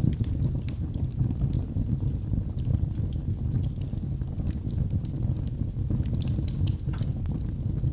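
Wood fire burning in a fireplace: a steady low rumble of flames with scattered sharp crackles and pops, a few more of them about six to seven seconds in.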